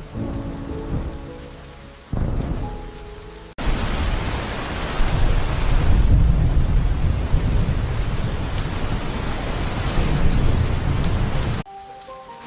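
Heavy rain with deep rolling thunder, cut in abruptly about three and a half seconds in and cut off just as suddenly near the end. Before it, soft music with a low thunder rumble swelling twice.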